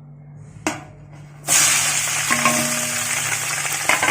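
Sliced onions going into hot oil in a pan. After a short knock, a loud sizzle starts suddenly about a second and a half in and keeps going.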